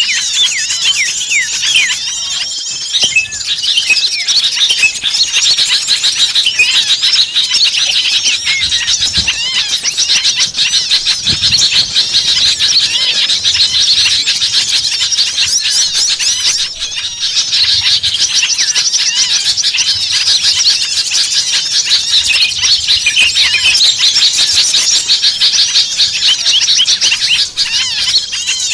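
A noisy chorus of many small songbirds calling over each other, dense rapid high chirps and trills that never pause: an agitated mixed-flock commotion of the kind played as a lure to draw small birds in.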